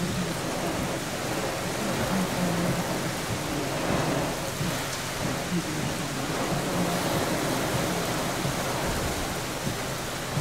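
Heavy rain falling steadily from a tropical-storm rain band.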